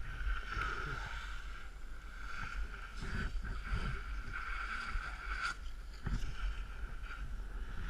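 Steady scraping hiss of a descent over snow on a ski slope, with wind rumbling on the microphone.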